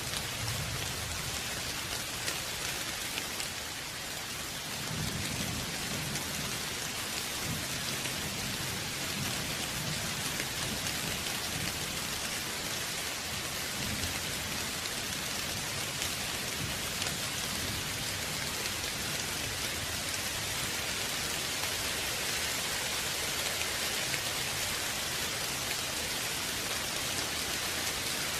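Steady rain falling on surfaces: an even hiss of many drops. A low rumble of distant thunder comes in about five seconds in and fades out over the next ten seconds or so.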